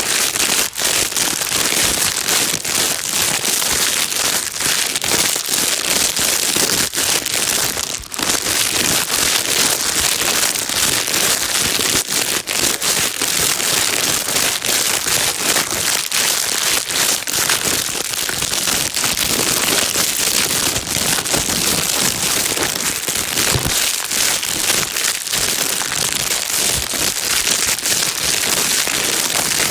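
Plastic bag being crinkled and rustled continuously, a dense, steady crackling used as white noise for calming a baby.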